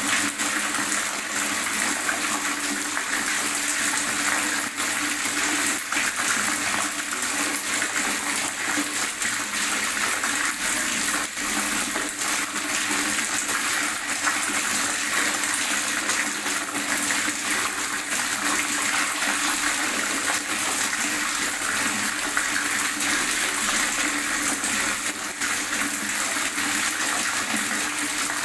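Water gurgling and splashing, steady and unbroken.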